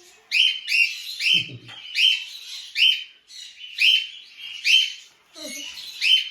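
A parrot calling over and over: short, shrill chirps, about two a second and often in pairs.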